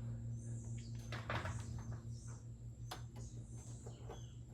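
A few sharp clicks from the plastic parts being handled and fitted, over a steady low electrical hum, with birds chirping faintly in the background.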